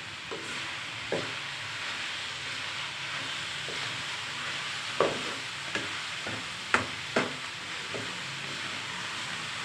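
Fenugreek leaves and potatoes sizzling in a wok while being stirred with a spatula. The spatula scrapes and knocks against the pan several times, loudest about seven seconds in.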